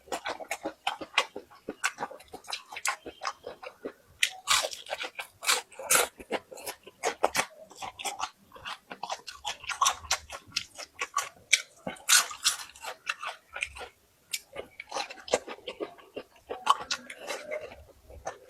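A person biting and chewing crunchy food close to the microphone, with a rapid, irregular run of crisp crunches and a brief pause about two thirds of the way through.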